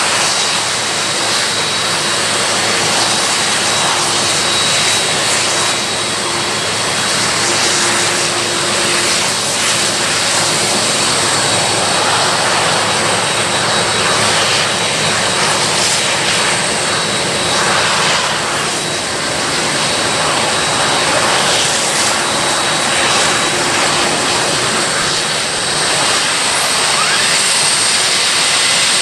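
Boeing 747-400F turbofan engines running steadily during engine start-up: a continuous rush of noise with a steady high whine over it.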